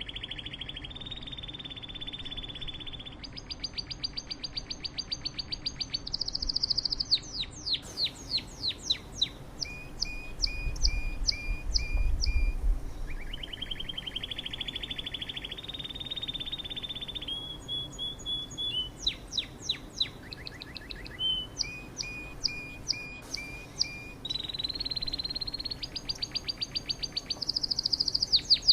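Small songbird singing: a varied song of fast trills and rapidly repeated notes that jumps from one pitch to another every few seconds, with brief pauses between phrases.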